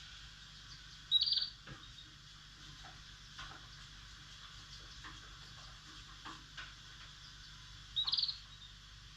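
Small pet cage birds giving two short, sharp chirps, one about a second in and one near the end, with faint scattered clicks in between.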